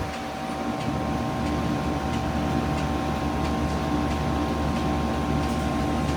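2016 Lasko Power Plus heat pump running iced up, shortly before a defrost cycle: a steady, noisy hum of compressor and fan with a few steady tones over it.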